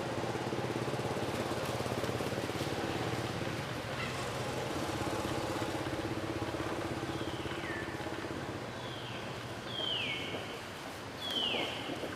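A motor engine running steadily. In the second half, four short high calls fall in pitch, each about a second or more apart.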